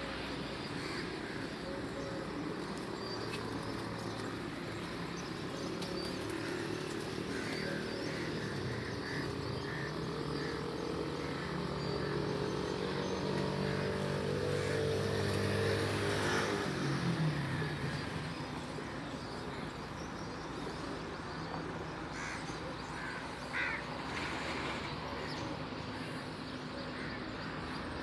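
A motor vehicle passes by: its engine grows louder and higher in pitch to a peak about sixteen seconds in, then drops in pitch and fades as it goes away. Short bird chirps are scattered through it.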